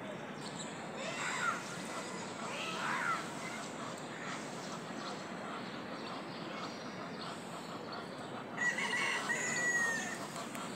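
Birds calling over steady outdoor background noise: two short calls that swoop in pitch about one and three seconds in, then a louder call held on a steady pitch for over a second near the end.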